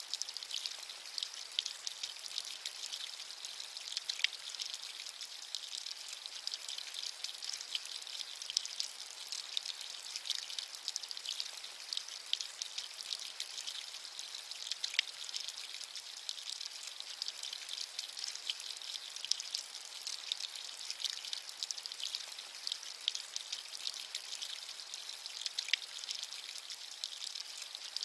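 Steady rain: a dense patter of fine drops over an even, high-pitched hiss, with almost no low end.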